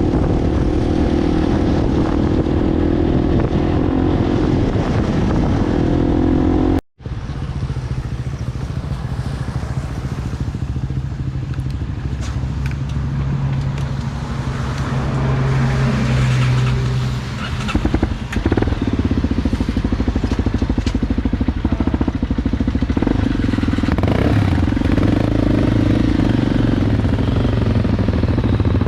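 Enduro motorcycle engine running while riding, its note wavering with the throttle. It cuts out sharply for a moment about seven seconds in, and comes back at a lower pitch.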